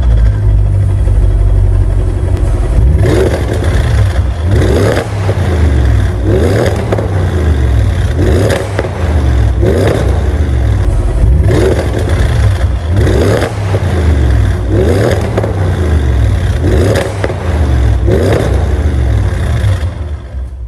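Audi S8 with a Milltek non-resonated cat-back exhaust, its engine idling with a deep rumble, then blipped again and again: about ten quick revs, each rising and falling, one every couple of seconds.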